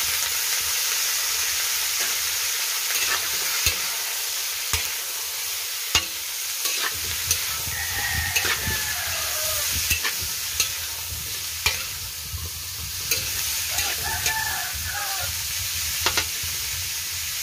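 Raw chicken feet frying in a wok with sautéed garlic and onion: a steady sizzling hiss, broken by irregular sharp clacks and scrapes of a spatula against the wok as they are stirred.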